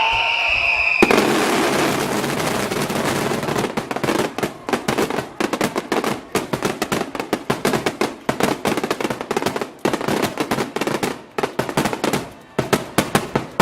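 Fireworks finale: a dense crackling of bursting shells starts abruptly about a second in, then gives way to rapid sharp bangs, several a second.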